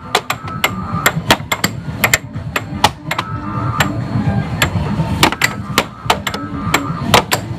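Air hockey puck and plastic mallets clacking in a fast rally: sharp, irregular cracks about two to three times a second, over a low steady background hum.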